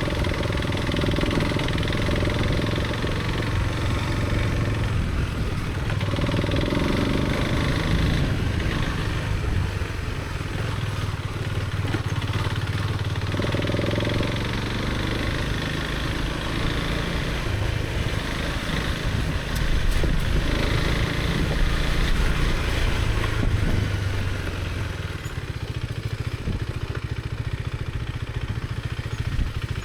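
Husqvarna Svartpilen motorcycle engine running under way, its note rising and falling repeatedly over a steady noisy hiss.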